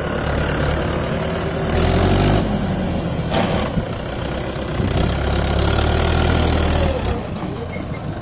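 Tractor diesel engine running, growing louder twice as it is throttled up: briefly about two seconds in, then for about two seconds a little later.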